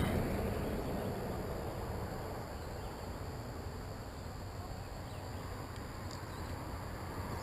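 Quiet outdoor ambience with a low, steady rumble of wind on the microphone.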